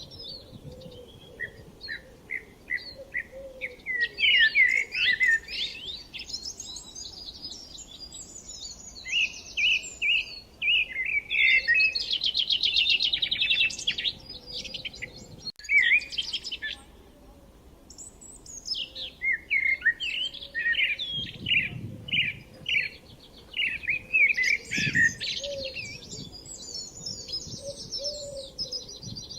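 Small songbirds singing, a run of quick chirps, trills and rapid repeated notes, with a momentary dropout about halfway through.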